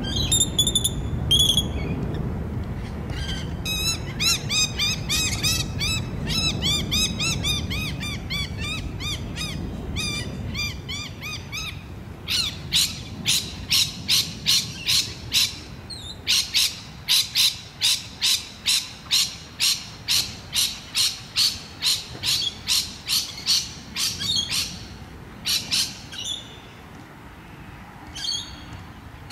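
A bird calling over and over in harsh squawks, settling into a steady run of about two calls a second in the middle stretch. A low rumble underneath fades out in the first half.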